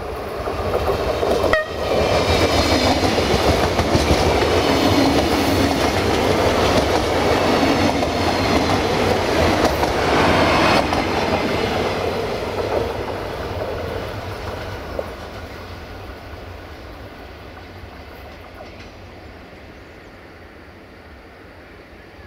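A Siemens Desiro diesel multiple unit of three coupled sets passing close by. The engines and the wheels on the rails are loud for about ten seconds, then fade steadily as the train pulls away.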